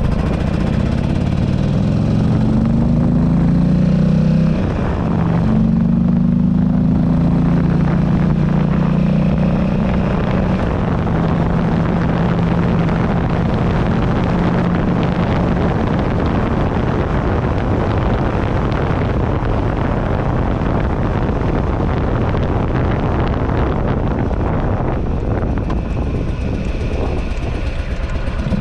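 Buell Ulysses XB12XT's air-cooled V-twin engine accelerating, its revs rising, dropping briefly about four seconds in, then rising again. It then settles to a steady cruise where wind noise on the handlebar-mounted camera's microphone covers the engine.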